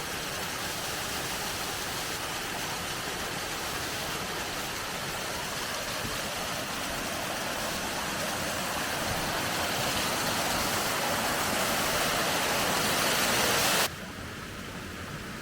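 Rushing water of a mountain waterfall cascade, a steady noise that grows slowly louder, then drops suddenly to a quieter rush near the end.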